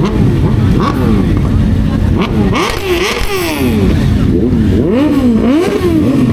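Honda CBR650R's inline-four engine revving while riding at speed. The pitch climbs and falls several times from about two seconds in, as the throttle opens and closes through the gears, over a steady rush of wind.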